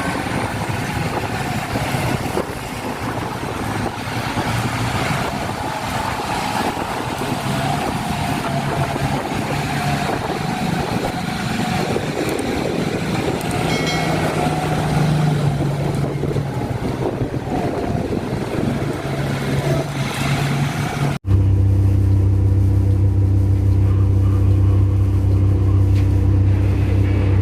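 Large mining haul truck diesel engine running under work, its pitch drifting up and down. About two-thirds of the way in, it cuts suddenly to a louder, steady low engine drone.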